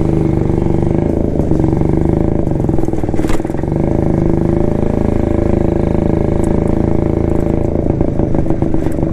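1972 Jawa motorcycle's two-stroke single running at a steady speed while riding over a rough, gravel-strewn road, with one sharp knock about three seconds in.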